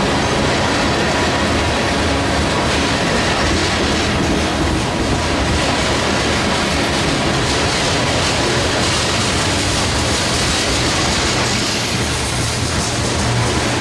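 Train rolling past at close range: a steady, loud noise of wheels on rails with a low hum underneath.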